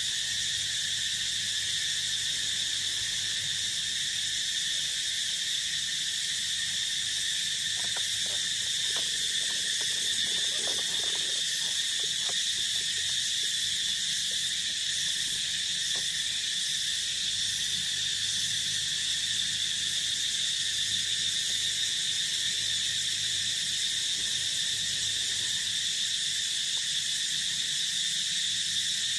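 Steady, unbroken chorus of crickets and other insects in an open field, with a few faint short animal calls about a third of the way in.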